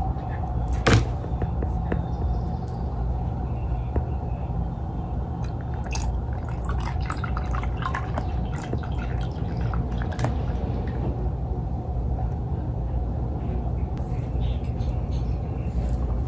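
Milk pouring and dripping from a wearable breast pump's plastic collection cup into a plastic pitcher for several seconds, with sharp plastic clicks as the cup is handled, over a steady low hum.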